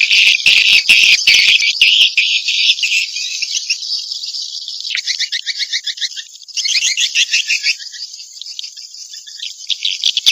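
Swiftlet 'inap' (roosting) lure call: swiftlets twittering in dense, rapid high chirps, with a run of sharp clicks in the first two seconds. The chirping thins to sparser trills through the middle and thickens again near the end.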